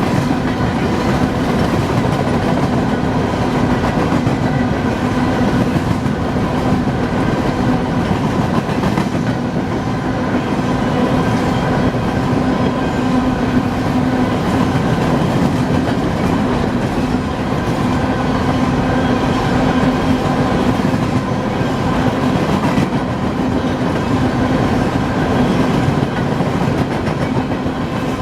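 Empty coal train rolling steadily past, its wheels rumbling and clicking on the rails without let-up.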